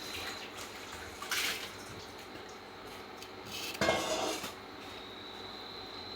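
Cookware clattering: two short scraping clatters of a utensil against a pot or pan, about two and a half seconds apart.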